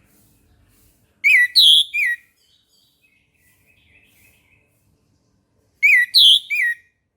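Orange-headed thrush singing: the same loud, clear three-note whistled phrase twice, about a second in and again near the end, with a soft twittering warble in between.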